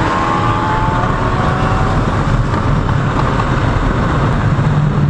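Kawasaki Ninja 650 parallel-twin motorcycle riding at highway speed, heavy wind rush over the helmet microphone with the engine note underneath. The engine pitch eases down slightly in the first second, then holds steady.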